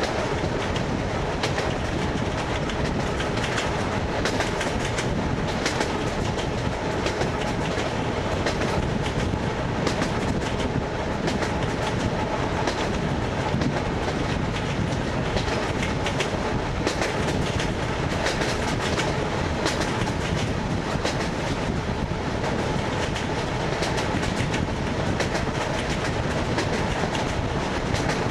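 Wheels of an ED9MK electric multiple unit clattering over the joints of jointed rail at running speed, heard from inside the passenger car over the steady rumble of the moving train.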